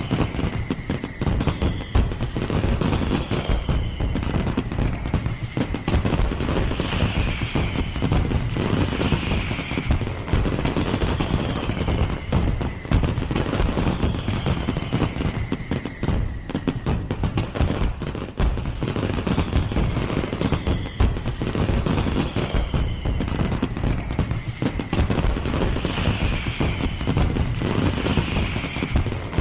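Fireworks display: a continuous rapid barrage of bangs and crackles, with no let-up.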